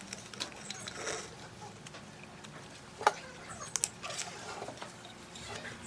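Light scraping and handling noises with a sharp click about three seconds in, then two quick clicks, typical of hands working with tools and parts.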